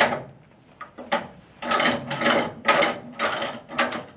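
Flatbed trailer strap winch being cranked with a winch bar, its pawl ratcheting in repeated bursts of clicks about twice a second after a brief pause.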